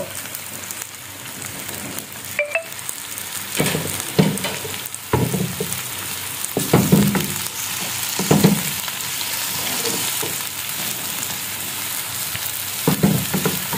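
Chopped cabbage, tomato, onion and green chilli sizzling in hot oil in a frying pan, with a wooden spatula scraping and knocking against the pan every second or two as the vegetables are stirred.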